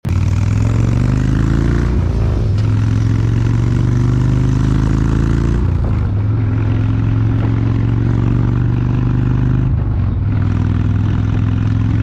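Indian V-twin motorcycle engine pulling away, its pitch rising over the first couple of seconds, then running steadily at speed, with a few sudden shifts in pitch.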